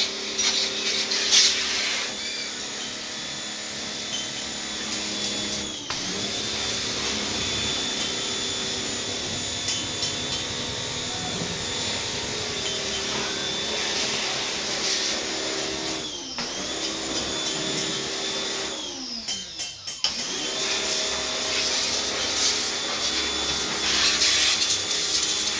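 A car-wash cleaning machine's electric motor running with a steady whine. Its pitch sags and climbs back three times: about a quarter of the way in, past halfway, and again about three quarters through.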